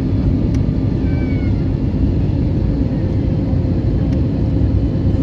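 Airbus A320neo cabin noise heard from a window seat: the engines and airframe make a steady, even rumble with a faint steady hum.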